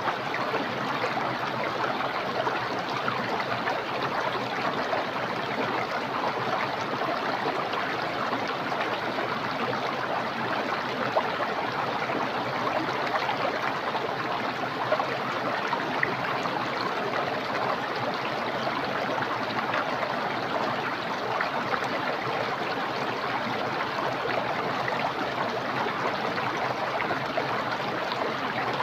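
Small, clear, fast-flowing stream rushing and gurgling steadily over rocks.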